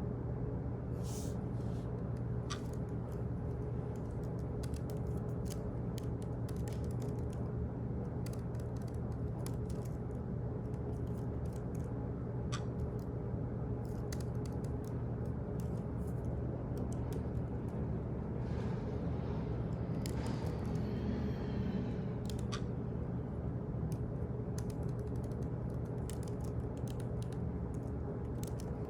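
Office ambience: a steady low hum of room equipment with irregular clicks like computer-keyboard typing scattered through it, and a short scraping, creaking sound about two-thirds of the way through.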